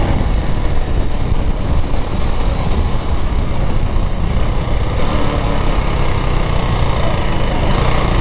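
KTM Duke 390 single-cylinder motorcycle being ridden, its engine running under a steady heavy wind rumble on the microphone.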